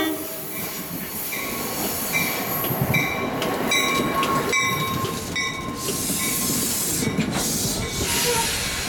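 NJ Transit commuter coaches rolling past at low speed as the train pulls into the station, a steady rumble with intermittent high squealing from wheels and brakes as it slows. The tail of a horn blast ends right at the start.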